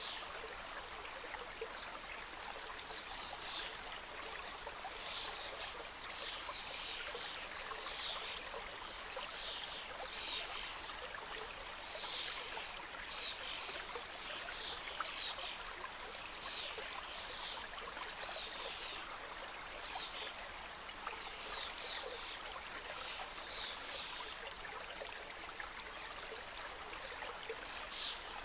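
Forest mountain stream cascading over rocks: a steady rush of water, with many short high-pitched sounds scattered through it.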